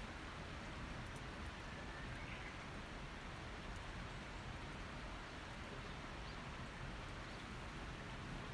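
Faint, steady outdoor background noise: an even hiss with a few soft ticks.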